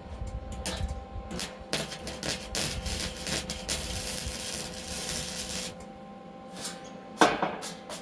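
Flux-core wire-feed welding arc crackling and sputtering from an old Lincoln welder: a few short spurts, then a steady run of about four seconds. A sharp metallic clank near the end.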